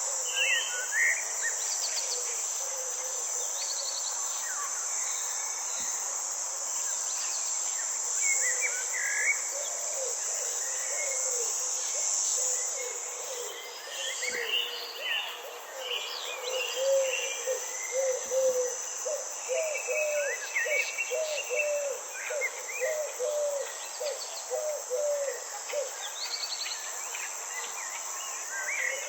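Night insect chorus, crickets trilling steadily and high, with scattered bird chirps over it. In the second half a low call repeats about one and a half times a second for some ten seconds.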